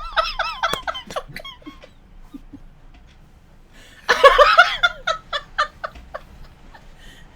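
A woman laughing: high giggles at the start, then a louder burst of laughter about four seconds in that breaks into short, breathy laughs.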